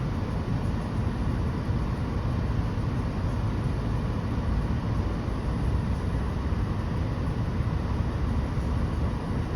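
Steady low rumble with a fainter hiss above it, unchanging throughout, with no distinct chirps or knocks.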